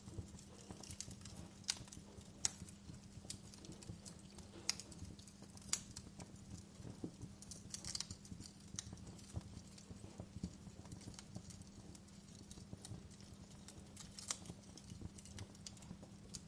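Wood fire burning in a fireplace, crackling with irregular sharp pops and snaps over a low steady hum.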